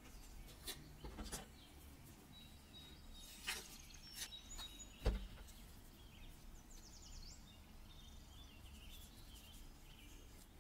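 Faint handling of a roll of masking tape: a few soft clicks and rustles, the sharpest about five seconds in, with faint high chirp-like squeaks in between.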